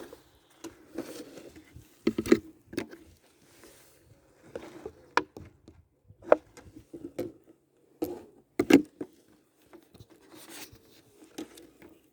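Irregular knocks, taps and scrapes of a sap-collecting container and its tube being handled and refitted at a tapped birch tree.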